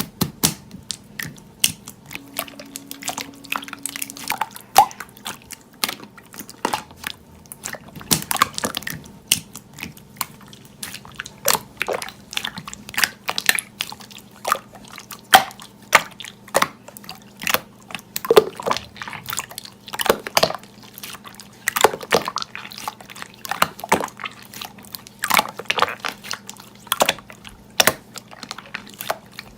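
Slime being played with by hand: a run of irregular sticky clicks and pops, some louder than others.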